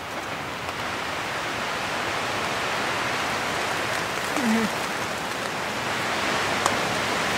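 Steady rain on a tent, heard from inside as an even hiss that grows louder over the first couple of seconds. A short low pitched sound comes about midway.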